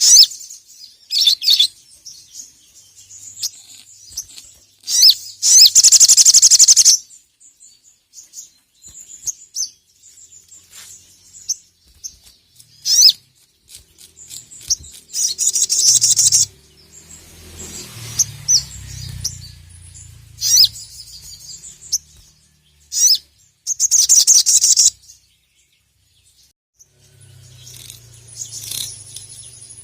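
Crimson sunbird (sogon) calling hard: sharp, high chirps broken by several rapid, loud trills lasting a second or two each. This is the aggressive calling of a bird answering a rival.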